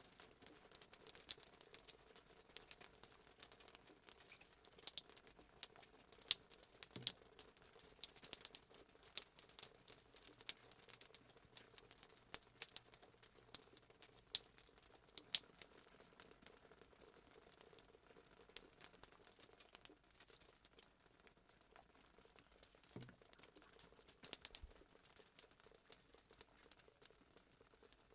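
Faint fireplace sound effect: a wood fire crackling, with many small sharp pops and snaps over a low hiss.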